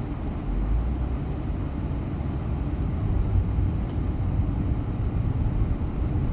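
Steady low rumble of a Honda Pilot's engine and tyres heard from inside the cabin while driving along snowy streets.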